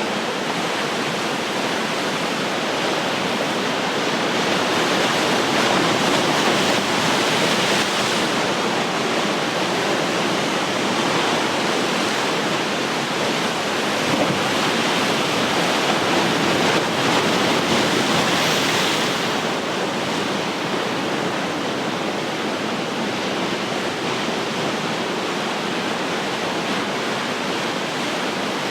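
Ocean surf: a steady wash of breaking waves that swells louder about a quarter of the way in, crests again just past the middle, then eases back.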